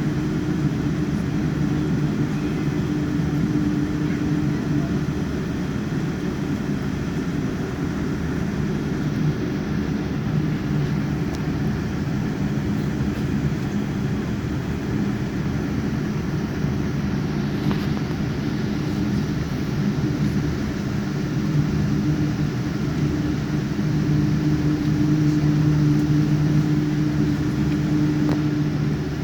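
Steady cabin noise of a Boeing 787-9 with Rolls-Royce Trent 1000 engines, heard from inside the cabin: a low engine hum with a few held low tones over an even rushing noise, growing slightly louder near the end.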